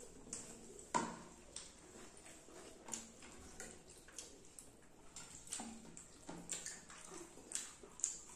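Close-miked mouth sounds of eating fish curry and rice: wet chewing with irregular lip smacks and clicks, the sharpest about a second in.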